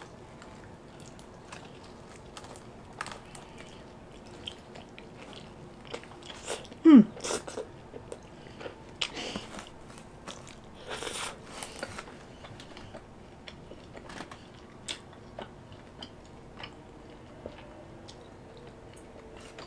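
Close-up biting, crunching and chewing of a crisp fried pizza crust: a run of sharp crackles and short crunches as the slice is bitten and chewed. About seven seconds in there is a short hum from the eater that falls in pitch.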